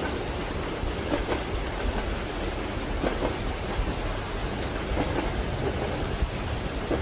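Steady rain on a train window over the low rumble of a moving train, with a soft double knock of the wheels over rail joints about every two seconds.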